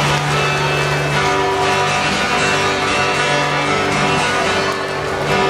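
Instrumental music: a song's accompaniment with a strummed guitar playing steadily between sung lines.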